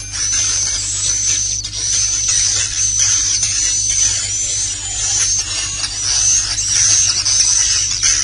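Swiftlet 'inap' (roosting) call track: a continuous mass of rapid, high twittering chirps, the lure sound played in swiftlet houses to attract swiftlets to roost and nest. A steady low hum runs underneath.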